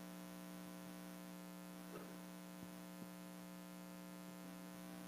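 Near silence with a steady electrical mains hum and a few faint ticks around the middle.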